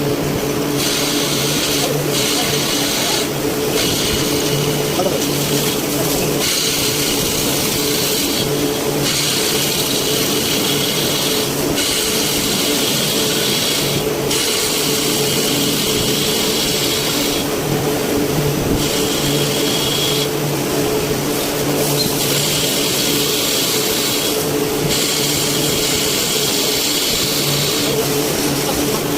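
CNC machine running: a steady motor hum under a high hiss that drops out briefly every few seconds.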